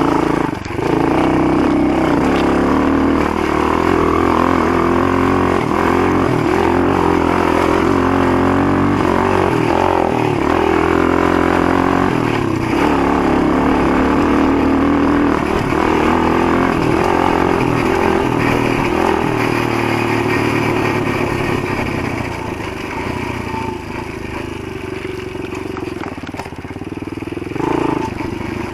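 Motoland GF125 pit bike's single-cylinder 125 cc four-stroke engine running while the bike is ridden, its pitch rising and falling with the throttle. The engine gets quieter for the last several seconds.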